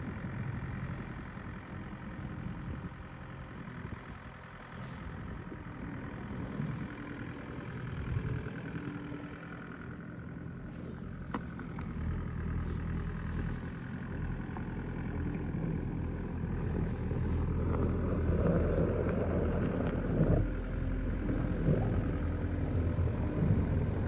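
A vehicle engine running steadily, growing louder in the second half, with rougher rumbling noise near the end.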